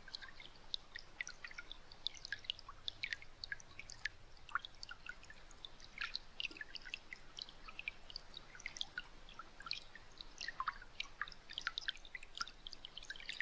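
Soft, irregular dripping plinks, several a second, like water drops falling.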